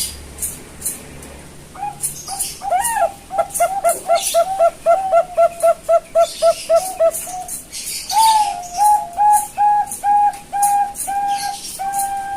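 Young Bangkok-strain zebra dove (perkutut) cooing in two rapid staccato runs of repeated notes: the first about three notes a second, the second a little slower with longer, held notes. Short sharp clicks sound throughout.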